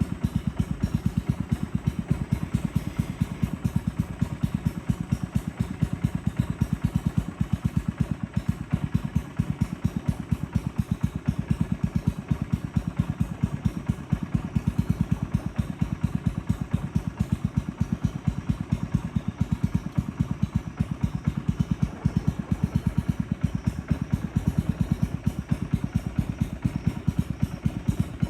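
Boat motor running steadily, a fast, even low thudding beat that keeps up without change.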